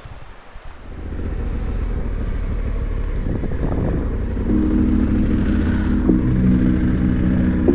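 Honda Africa Twin CRF1100's parallel-twin engine running. It comes in about a second in, settles into a steady note about halfway through, and shifts pitch slightly a little later.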